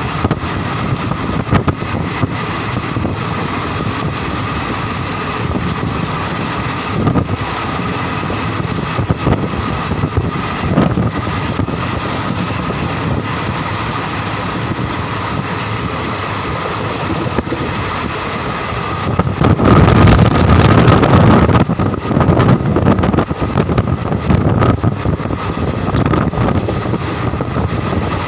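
Train running on the rails: a steady rumble of wheels on track with scattered clicks, growing louder and rougher for a few seconds about two-thirds of the way through.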